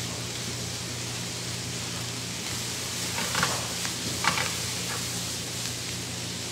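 Beef cubes and onions frying in pans on portable gas stoves with a steady sizzle. A spatula scrapes and knocks against a pan a few times, about three and four seconds in.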